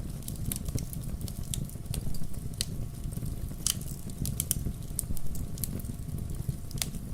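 Wood fire burning in a fireplace: logs crackling with irregular sharp pops over a low steady rumble of the flames.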